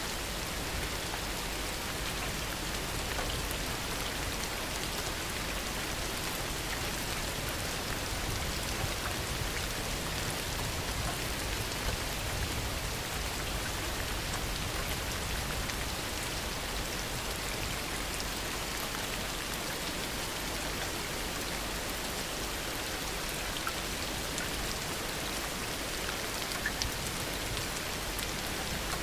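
Heavy rain falling steadily, a dense even hiss of drops with a few small individual drop taps.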